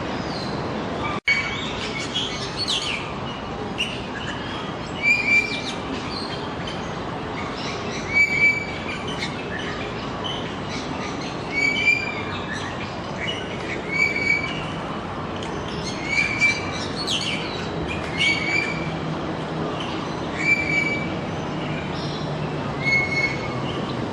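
Birds calling: a short chirp repeated every two to three seconds, with other higher chirps between, over a steady background din.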